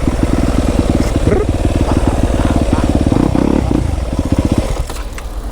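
Yamaha YZ250F dirt bike's single-cylinder four-stroke engine running under way, a rapid steady pulse, then quietening near the end as the throttle is closed.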